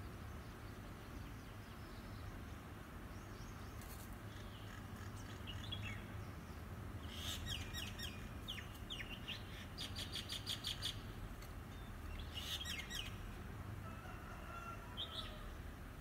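Birds chirping and calling in short bursts, with a fast run of evenly repeated notes around the middle, over a faint steady background hum.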